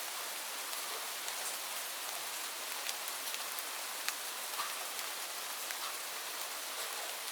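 Steady rainfall: an even hiss of rain with scattered sharper taps of single drops striking nearby.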